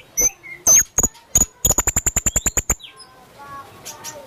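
Bird calls from a songbird tutoring recording: a few sharp, high chirps, then a fast trill of about a dozen quick notes lasting about a second, then softer twittering.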